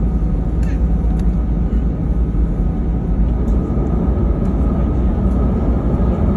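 Airbus A319 cabin noise while taxiing: a steady low engine rumble with a faint steady whine, and a couple of light clicks about a second in.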